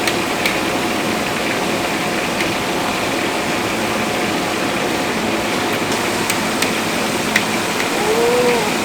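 Steady machine-like roar of cooking equipment, with a few sharp clicks and taps scattered through it.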